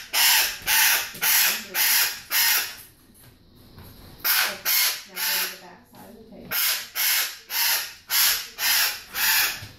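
A restrained bird giving harsh, raspy calls over and over, about two a second, breaking off briefly twice. The bird is held by the neck for dosing.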